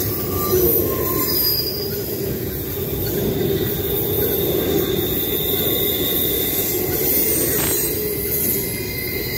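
Norfolk Southern double-stack intermodal train rolling steadily past, its well cars giving a continuous rumble and roar of wheels on rail, with thin high wheel squeals coming and going.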